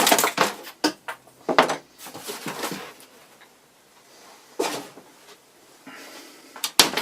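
Cable ties being snipped and pulled off a radio-controlled truck in its packaging: a quick run of sharp clicks and knocks, then a scratchy stretch and a few more separate clicks.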